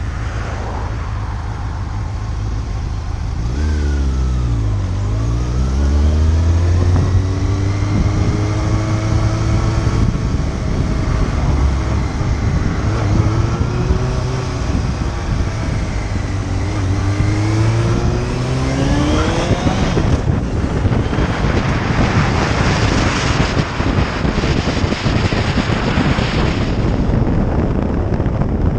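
Motorcycle engine under way under heavy wind noise on the microphone. About four seconds in the engine note drops, then it rises and falls with the throttle. From about twenty seconds in the wind rush drowns it out.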